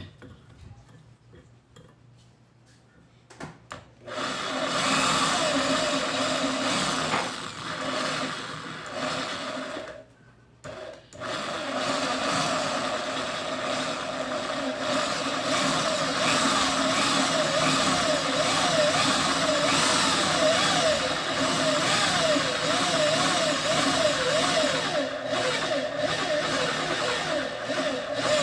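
Mini drill press motor with a 1.6 mm drill bit running, starting about four seconds in, cutting out briefly about a third of the way through, then running again with its pitch wavering up and down.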